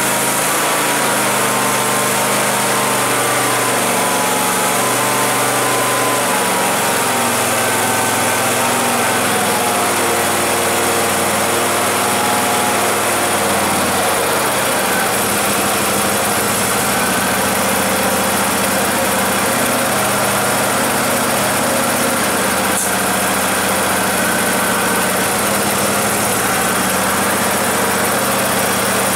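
Husqvarna YTH 24K48 garden tractor's 24-horsepower engine running steadily at idle just after a cold start, still warming up. Its pitch settles a little lower about halfway through.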